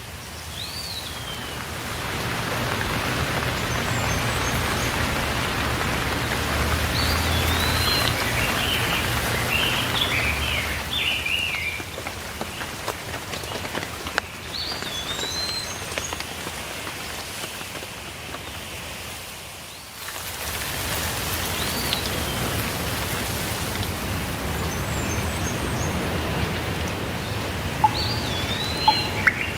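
Steady rainfall with songbirds chirping over it, short rising and falling calls coming in several separate bouts.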